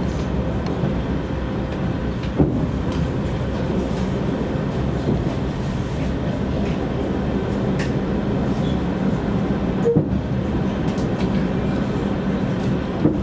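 A passenger train running on the line: the steady drone of a TEP70 diesel locomotive's engine over the rumble of the wheels on the rails, with a few single sharp knocks from the track.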